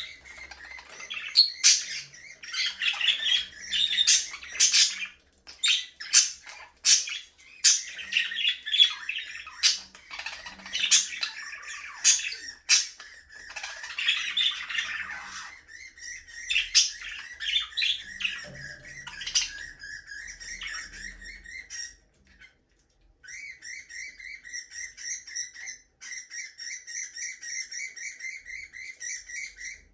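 A flock of budgerigars chirping and squawking, with many sharp, loud calls over the first half. In the second half the calls settle into a steady, rapid warbling chatter, broken once by a short pause.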